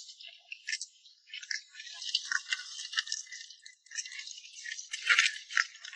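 Live crabs being sorted by hand: shells and claws clattering and scraping against each other and their container in an irregular run of clicks and rustles, loudest about five seconds in.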